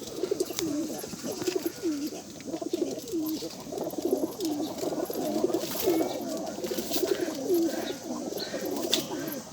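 A flock of male domestic pigeons cooing continuously, many overlapping coos repeating every half second or so.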